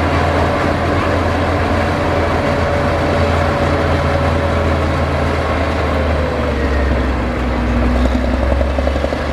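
Heavy diesel engine of earthmoving machinery running steadily, a deep hum with a whine above it that sinks slowly in pitch.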